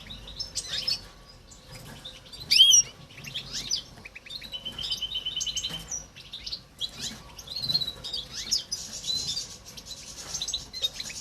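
Young goldfinch × canary mules chirping and twittering in a quick run of short high calls and sliding notes. The loudest call comes about two and a half seconds in, and a fast trill runs from about four and a half to six seconds.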